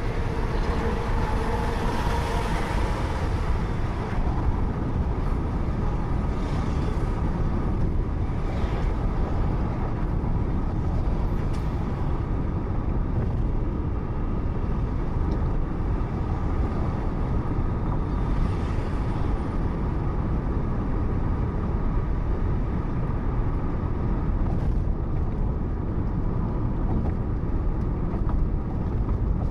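Road noise picked up by a car's dashcam while driving on a highway: a steady low rumble of tyres and engine, with a brief higher tone in the first few seconds and a few faint passing whooshes.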